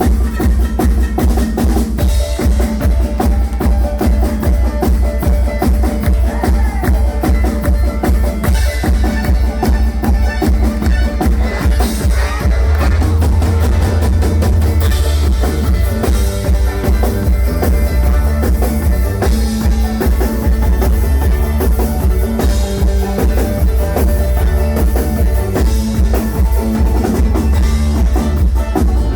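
Live bluegrass-style cover band playing a rock song: a drum kit keeps a steady beat over a heavy bass line, and the bass grows stronger about halfway through.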